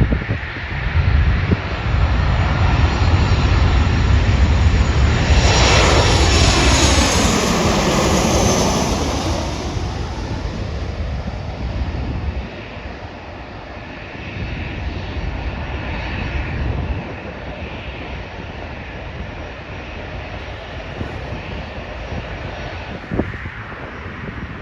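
Jet airliner passing close by: the engine rumble builds, peaks about six to nine seconds in with a sweeping, phasing whoosh, and fades away after about twelve seconds, leaving a quieter steady background.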